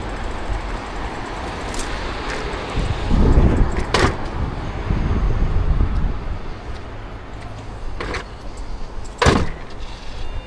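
Urban street traffic heard from a moving bicycle: a steady low rumble that swells as a vehicle passes about three seconds in, with three sharp clicks or knocks, the loudest near the end.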